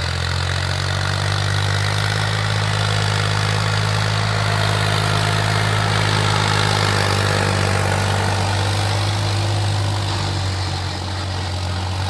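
Tractor engine running steadily with a low, even hum, easing off slightly near the end.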